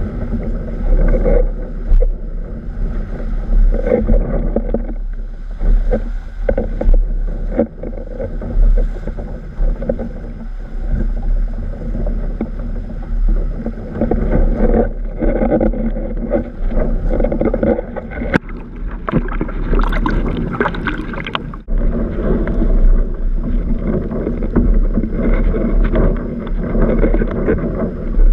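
Windsurf board sailing in strong wind: steady, gusting wind rumble on the microphone over water rushing and slapping against the board, with a brighter rushing hiss for a few seconds about two-thirds of the way through.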